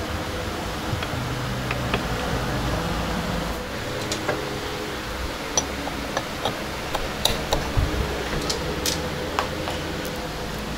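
Scattered light clicks and taps of hand tools and metal parts being handled, over a steady background hum.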